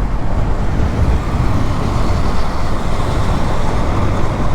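Riding noise from a KTM Duke 200 motorcycle at steady cruising speed: wind rushing over the helmet-mounted microphone on top of engine and road noise, with no break or change.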